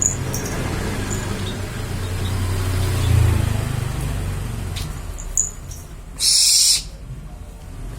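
Barn owl giving one loud hissing screech about six seconds in, lasting about half a second, as it waits to be fed. A few short clicks sound before it, over a steady low hum.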